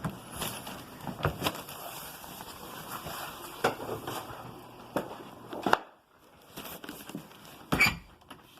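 Scattered, irregular clicks and knocks, the loudest near the end, over a low background hiss, with a brief drop to near silence about six seconds in.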